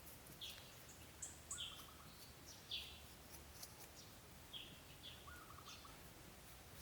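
Faint bird chirps: short, falling calls repeated every half second or so. A lower, rattling trill comes twice, about a second and a half in and again near five seconds.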